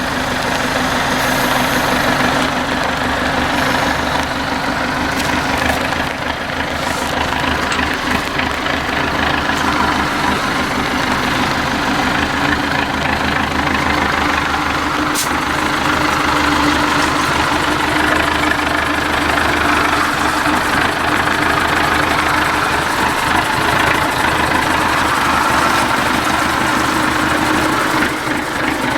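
IFA W50 off-road trial truck's diesel engine running steadily at low revs.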